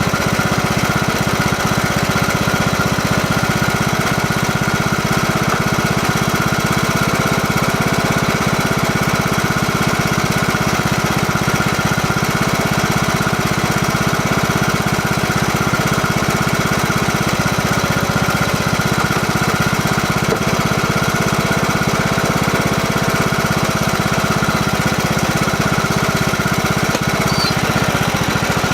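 Lawn mower engine running steadily while mowing grass.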